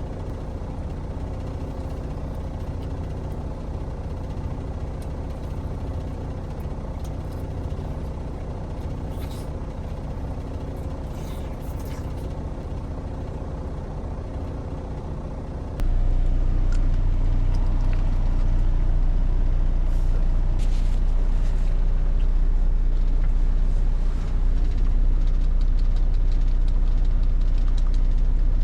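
Semi-truck's diesel engine idling steadily, heard from inside the cab; about halfway through the hum abruptly becomes louder and deeper.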